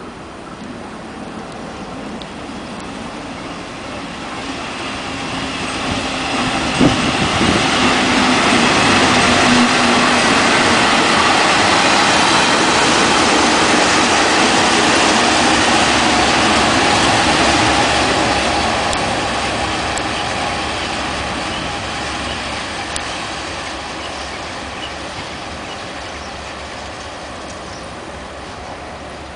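A TRA train made up of an electric locomotive, a steam locomotive, a freight wagon and a diesel locomotive rolling past on the rails. The rumble of wheels on track grows over the first eight seconds or so and holds for about ten seconds, then fades as the train moves away. One sharp knock comes about seven seconds in.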